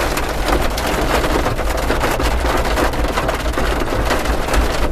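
Heavy rain pelting a vehicle's roof and windshield in a dense, steady patter of drops, heard from inside the cab, with a low steady rumble underneath.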